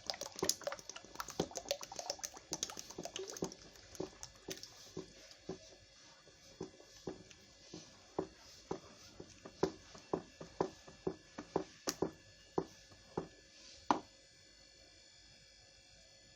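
A thick hair-conditioner mixture being stirred in a container with foam booster just added, the stirrer clicking and knocking against the container. The knocks come thick and fast at first, then slow to about two a second and stop a couple of seconds before the end.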